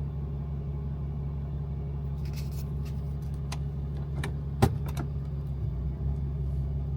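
Dually pickup truck engine idling with a steady low hum. A few light clicks sound in the middle, with one sharp knock about four and a half seconds in.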